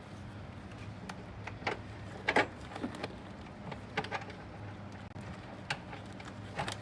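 Scattered metallic clicks and knocks of hand tools and engine parts being handled, with a steady low hum underneath.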